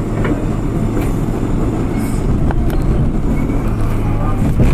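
Running noise of an R32 subway train: a steady rumble with a low hum and a few sharp clicks from the wheels and track.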